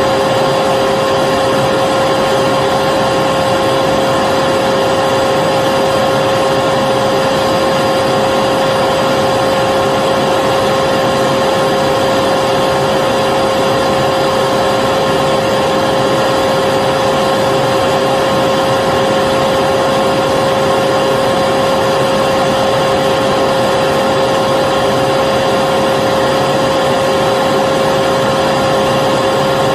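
Vacuum cleaner running steadily, a constant rushing of air with a steady high whine from the motor.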